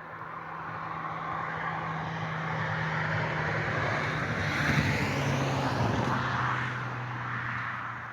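A motor vehicle passing by: its sound swells to a peak a little past the middle and then fades, and its engine hum drops in pitch as it goes past.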